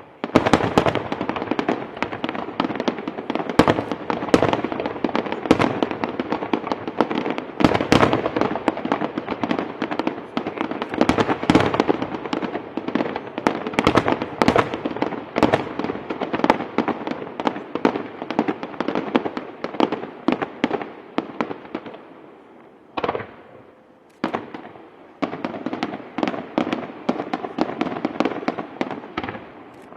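Fireworks display: a dense, rapid barrage of shell bursts and firecracker reports going off one after another. About two-thirds through it thins to a lull with a single bang, then another quick volley follows and stops just before the end.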